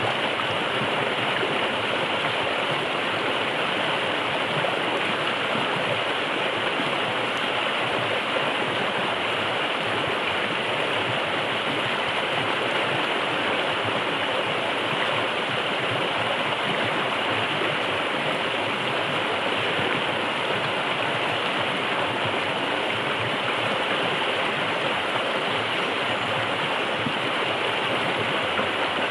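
River water flowing: a steady, unbroken rush of water.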